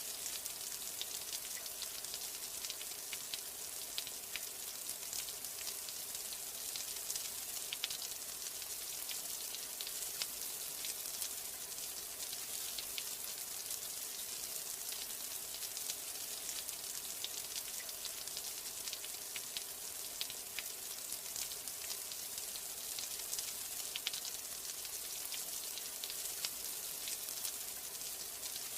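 Steady rain: a dense, even hiss with many small droplet ticks scattered through it.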